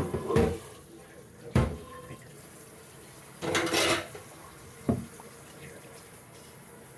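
Dishes being washed at a kitchen sink: two sharp clinks of dishware, and a brief rush of water from the tap about halfway through.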